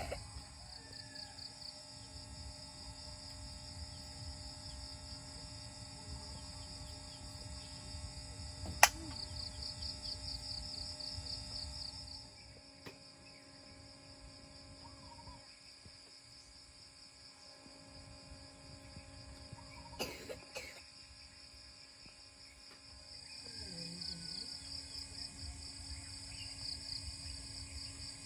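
Insect chorus, a steady pulsing trill, over a low background hum, with one sharp click about nine seconds in and a couple of short knocks around twenty seconds.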